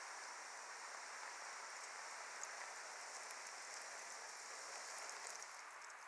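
Wood fire burning with a steady hiss and scattered small crackles.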